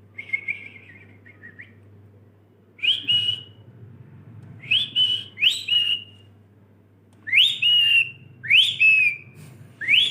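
Pet Indian parrot whistling: a short warbling trill, then a series of sharp, rising whistled calls, some in quick pairs.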